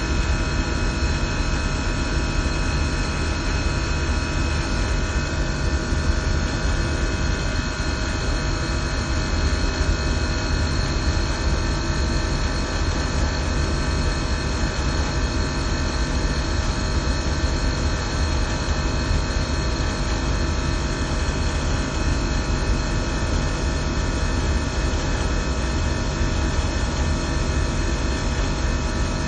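Systemair chiller–fan coil HVAC equipment running steadily: a constant mechanical hum with several steady tones over a heavy low rumble.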